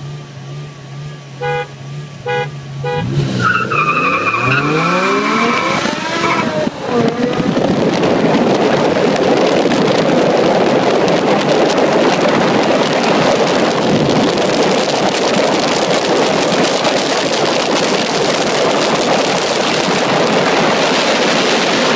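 BMW M5 E60 V10 with a Meisterschaft exhaust, first running steadily, with three short toots about two seconds in. From about three seconds it accelerates hard, its pitch climbing in steps through quick gear changes. It then settles into a loud, steady rush of engine and wind noise at high speed.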